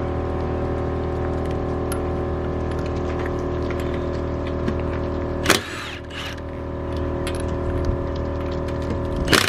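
A motor running with a steady pitched hum that cuts off abruptly with a loud click about five and a half seconds in. Another loud click comes near the end.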